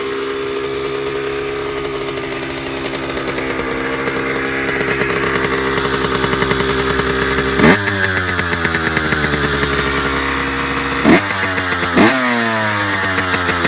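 Small Honda 80cc engine running shortly after a cold start, holding a steady speed that creeps up slightly, then revved in three quick blips (one about two-thirds of the way in and two close together near the end), the revs dropping back after each.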